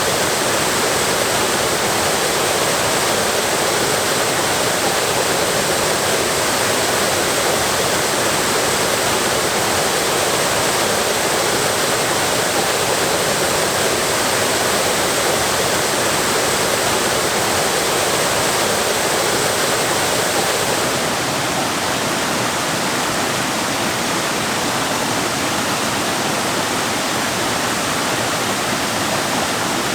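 Waterfall pouring steadily, a dense, even rush of falling water. About two-thirds of the way through it changes to a slightly quieter, duller rush, as the sound switches to another cascade.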